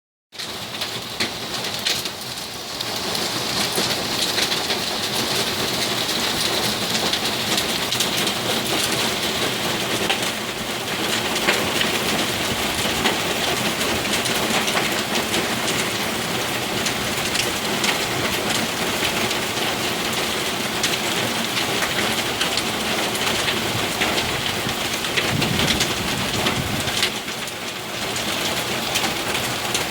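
Heavy rain pouring steadily, with many sharp ticks of drops and hailstones striking hard surfaces. A brief low rumble of thunder about 25 seconds in.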